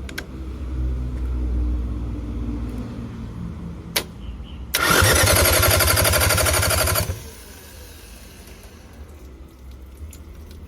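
Mitsubishi 4DR5 four-cylinder diesel engine turned over on its starter in one loud burst of about two seconds with a fast, even chugging, preceded by a click. A lower rumble comes before it, and it drops back to a quieter rumble afterwards.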